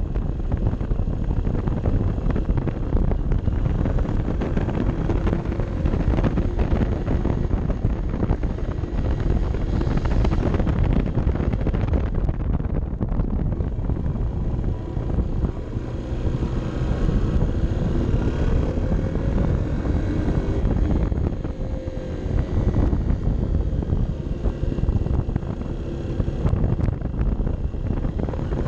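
Honda CB 125 F's single-cylinder four-stroke engine running on the move, mixed with heavy wind noise on the microphone. Its note rises and falls in the second half as the revs change.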